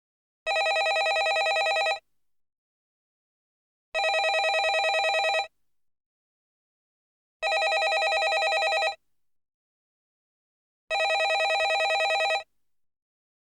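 Landline telephone ringing: four rings in a steady cadence, each a fluttering trill of about a second and a half, with silence of about two seconds between them.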